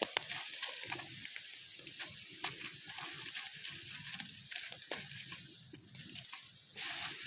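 Campfire burning: a steady hiss with frequent sharp crackles and pops.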